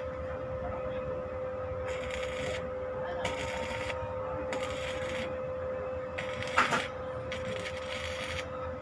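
Drill-driven homemade foam shredder running with a steady motor whine, and several short bursts of rustling noise over it. One sharp knock is heard past the middle.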